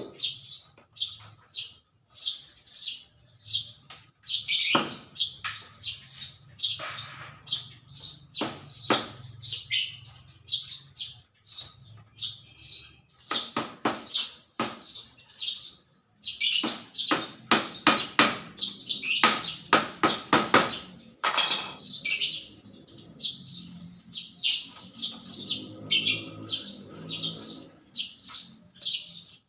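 Small birds chirping repeatedly in short, high chirps, several a second, with scattered sharp clicks or taps among them.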